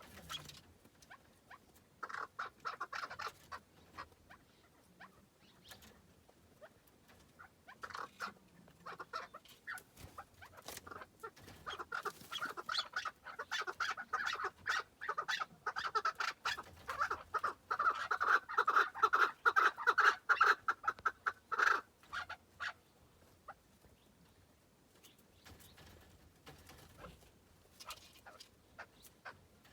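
Chukar partridge calling: scattered clucking notes that build into a long, fast, louder run of chuck notes, which breaks off, leaving a few quieter notes.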